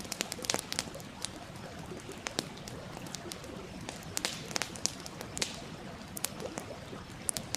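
Wood fire crackling with irregular sharp pops, several in quick succession near the start and another cluster around the middle, over the steady rush of a stream.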